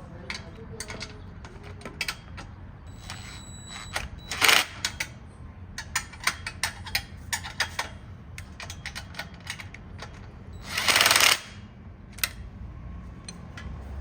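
Hand ratchet wrench clicking in short runs as exhaust flange bolts are turned, with two louder, longer rasping bursts about four and a half and eleven seconds in.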